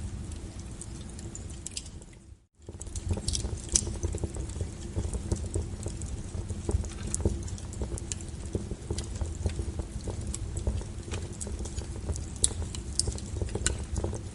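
Wood fire crackling and popping in irregular sharp snaps over a steady low rumble of burning. It cuts out briefly about two and a half seconds in, then resumes.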